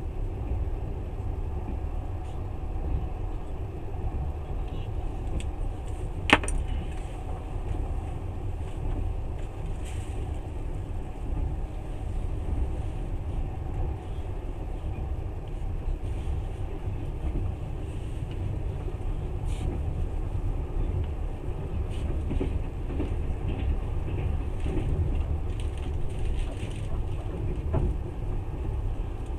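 Steady low rumble of a moving passenger train, heard from inside the carriage, with one sharp click about six seconds in.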